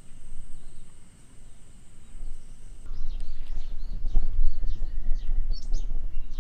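Wild birds chirping and whistling in short, repeated calls over a loud, uneven low rumble. Before the birds start, about three seconds in, a steady high-pitched whine ends abruptly.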